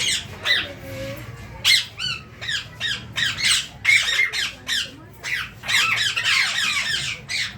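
Rose-ringed parakeets calling in a quick series of short, high squawks, the calls coming almost without a break near the end.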